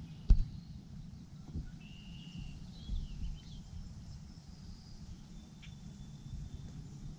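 Outdoor ambience of a few bird calls, short whistled chirps and one thin held note, over a steady low wind rumble on the microphone. A single sharp knock, likely from handling the camera, comes just after the start.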